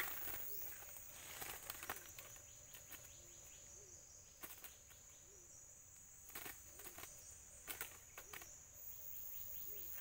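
Steady high-pitched chirring of insects, with faint rustles and clicks from hands working at a wire cage trap.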